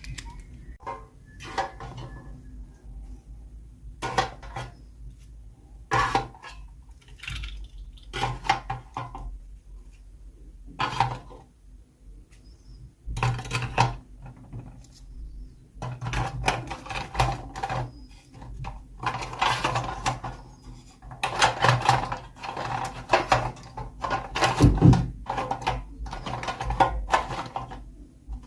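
Small plastic toy pieces and packaging being handled: irregular clicks, taps and light scrapes, sparse at first and busier in the second half.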